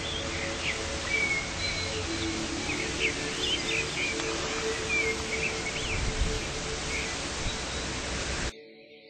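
Small birds chirping repeatedly with quick, short calls over a steady outdoor rushing noise and a faint steady hum; the sound cuts off abruptly near the end.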